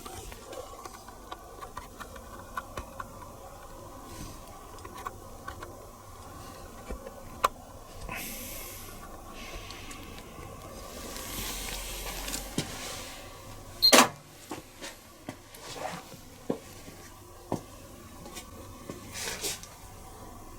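Small clicks from the control panel and door of a Miele Little Giant PWM 507 commercial washing machine as its program is started, over a faint steady hum, with two soft hisses in the middle and one sharp loud click a little over two-thirds through.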